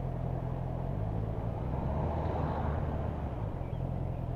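Motorcycle engine running steadily at road speed, under an even rush of wind and road noise.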